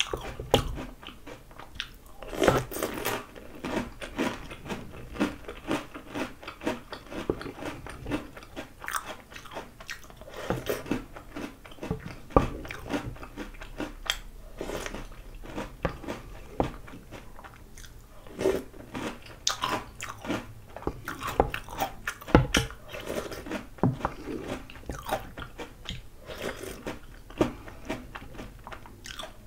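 Close-up crunching and chewing of Oreo O's chocolate cereal in milk, mouthful after mouthful, with a few sharp knocks.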